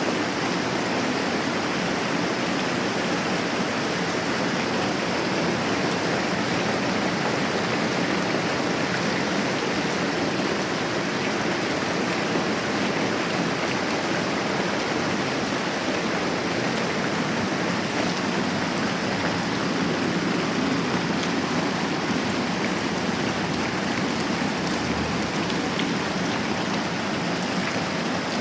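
Moderate rain falling steadily, an even, unbroken hiss of water.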